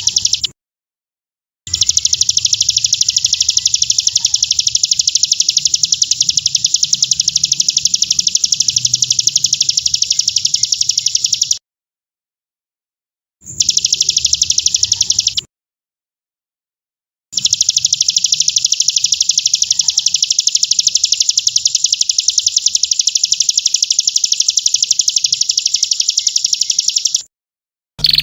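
A songbird's very fast, high, even trill, held in long unbroken stretches of up to about ten seconds and cut off sharply by dead-silent gaps, with a faint low hum beneath.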